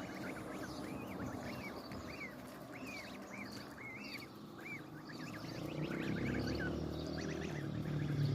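Goslings peeping: a string of short, high, up-and-down peeps, several a second. About six seconds in, a louder low hum joins them.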